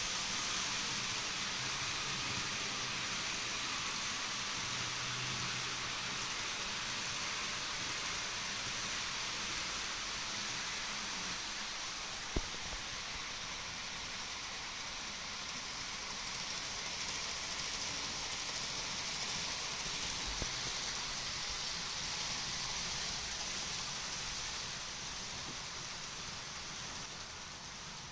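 N-gauge model train running on the layout track: a steady rolling hiss of small wheels on rail with a faint motor hum in the first half, a sharp click about twelve seconds in and another near twenty seconds, fading a little near the end.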